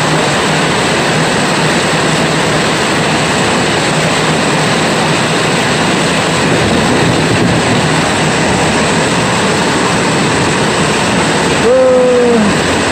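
Steady hiss of heavy rain. Near the end a short pitched sound, slightly falling, cuts through briefly.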